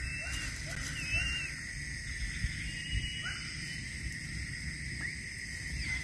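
Short whistled bird calls, repeating about three a second at first and then more sparsely, with a few rising chirps, over a steady high insect drone.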